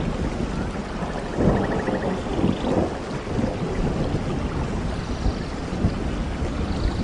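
Steady rain with thunder rumbling low underneath, swelling a couple of times in the first three seconds.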